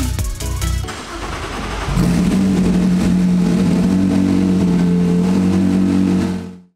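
A race car engine revs up, then is held at steady high revs for about four seconds before fading out near the end. Electronic music with a beat plays for about the first second.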